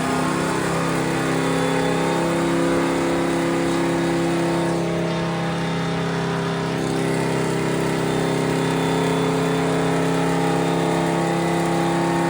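Drift car's engine running at a steady, fairly high speed: an even, loud drone that holds its pitch, with no revving up or down.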